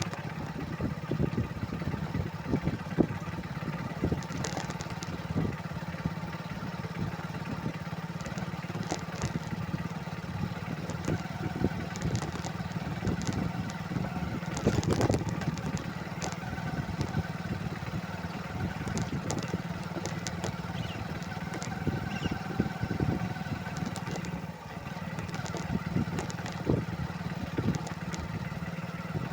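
Motorcycle engine running steadily while riding, with frequent short knocks and rattles over the steady hum.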